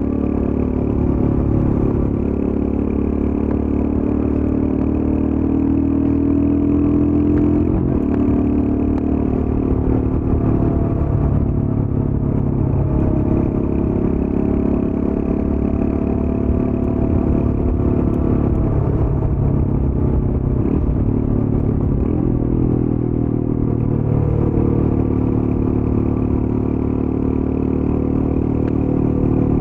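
Royal Enfield Scram 411's air-cooled single-cylinder engine running through its stock exhaust while riding at a steady pace. The engine note shifts a few times, about eight seconds in and again later, as the throttle or gear changes.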